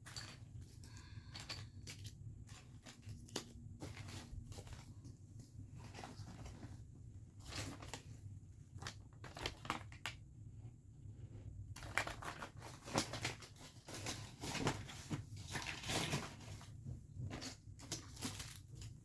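Irregular rustling, crinkling and light knocks of clutter and plastic being handled and sorted, busier and louder in the second half, over a steady low hum.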